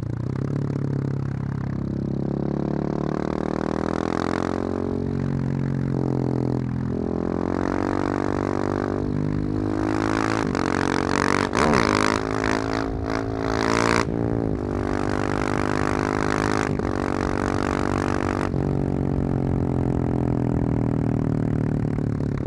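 Husqvarna 701's single-cylinder engine running through a loud aftermarket Wings exhaust, revving and accelerating, its pitch climbing and dropping repeatedly. It is loudest and hardest about halfway through.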